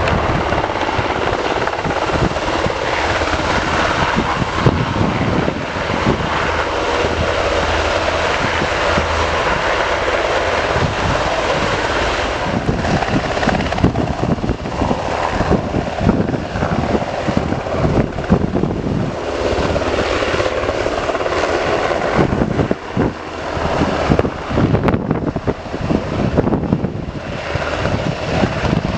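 Helicopter running: a loud, continuous rush of rotor and turbine noise, broken by irregular choppy pulses.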